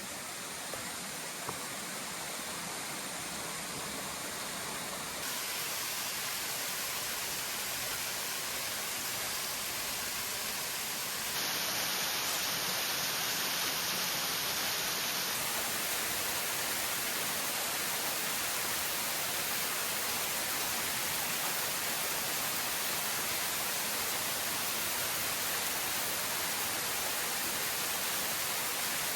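Steady rushing noise with no distinct events, getting slightly louder twice, about five and eleven seconds in.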